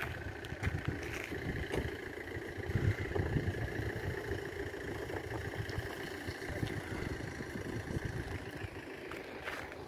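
Distant train approaching a station, a steady hum with a constant high whine. Low wind buffeting on the microphone rumbles underneath.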